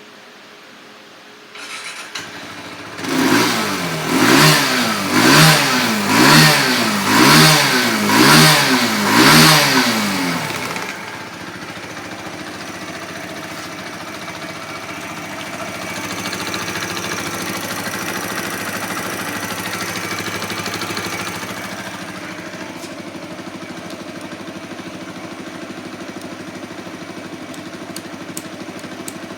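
A 2021 Kawasaki Z125 PRO's 125 cc single-cylinder four-stroke engine starts about two seconds in. It is blipped about seven times, roughly once a second, each rev rising and falling. It then settles into a steady idle that runs a little higher for several seconds in the middle.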